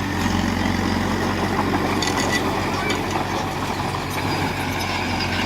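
Heavy diesel engine of earthmoving machinery running steadily, with light metallic clanks and rattles.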